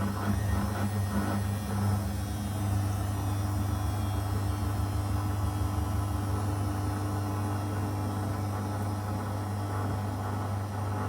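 Zanussi FL984CN washing machine running mid-cycle: a steady low motor hum with a faint higher tone that fades out about nine seconds in.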